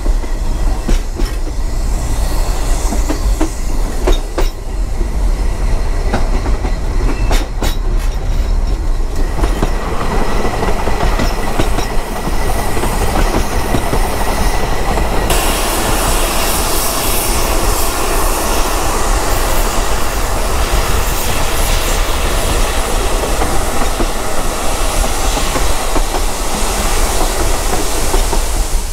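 Narrow-gauge train carriage running along the track. Wheels click over rail joints in the first several seconds, then a faint thin squeal sets in as the train rounds a curve. From about halfway through a louder, steady rush of running noise and wind takes over.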